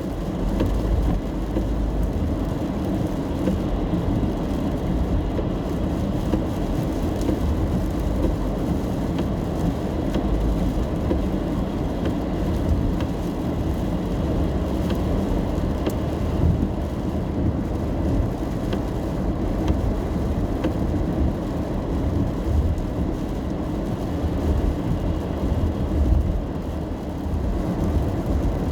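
Steady low rumble of a car driving on a wet road, heard from inside the cabin: tyre and engine noise with light, scattered taps of rain on the car.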